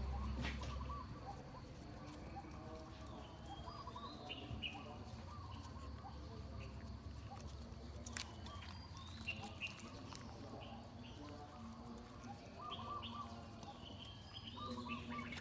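Small birds chirping on and off, in short high calls and quick trills that come in clusters.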